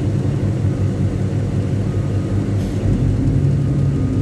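Caterpillar 777D haul truck's V8 diesel engine running steadily at constant speed, a low, even drone.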